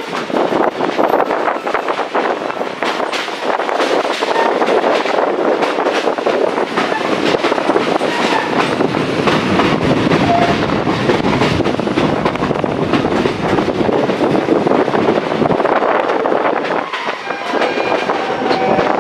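SE19 passenger train running along the track, heard from a carriage window: a steady rumble of wheels on the rails with a constant clatter of clicks and knocks.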